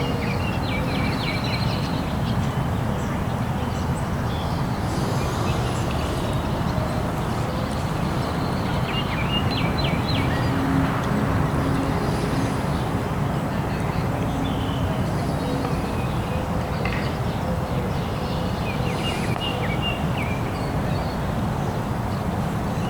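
Outdoor ambience of a steady low rumble with birds calling in short chirping bouts several times.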